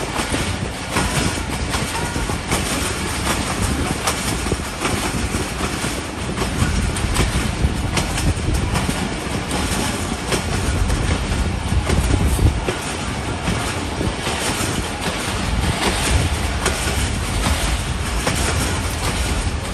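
Passenger train running along the track: a steady rumble of the coaches, with wheels clicking and knocking over the rails.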